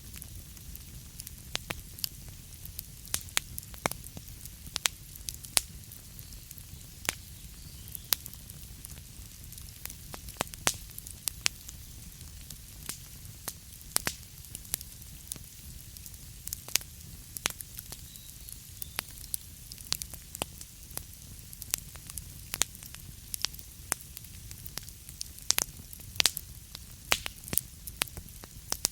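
Burning wood crackling: irregular sharp pops and snaps, several a second, over a soft steady hiss.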